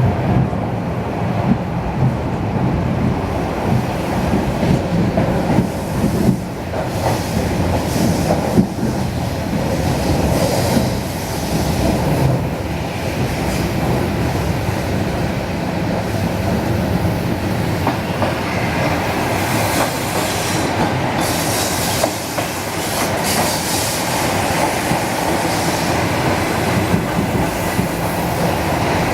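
ED4M electric train running along the track: steady wheel-and-rail running noise with clicks over the rail joints. From about two-thirds of the way through, a thin high-pitched wheel squeal joins in.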